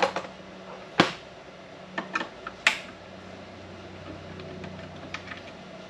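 Sharp clicks and taps, about five of them in the first three seconds and a few faint ticks after, from handling refrigerant gauge hoses and couplers at a tractor's air-conditioning service port, over a steady low hum.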